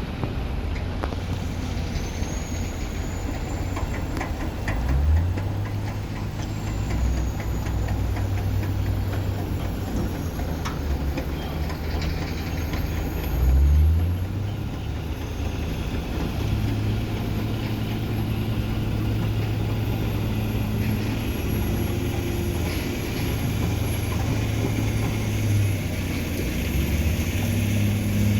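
Boeing CH-47 Chinook tandem-rotor helicopter in flight: a steady low drone of rotors and engines. Two louder low swells come about 5 and 14 seconds in.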